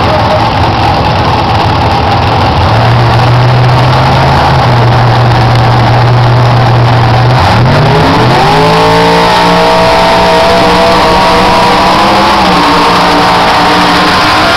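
Race truck engine running loud at a steady pitch, then a little past halfway rising quickly to a higher pitch and holding there.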